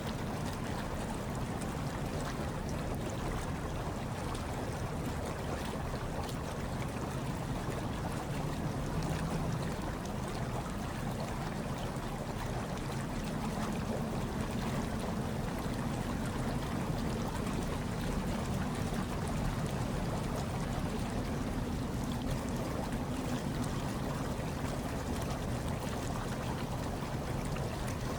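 Hot tub water churning steadily, with a low rumble underneath.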